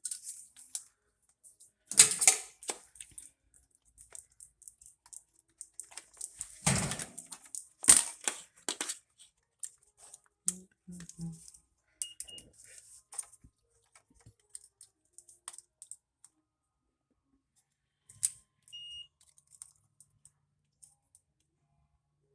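Handling noise from a repair at close range: scattered clicks, clatters and rustles as meter test leads and parts are handled, with a louder clatter about two seconds in and two more around seven to eight seconds. Two short high electronic beeps come about twelve seconds in and again near the end.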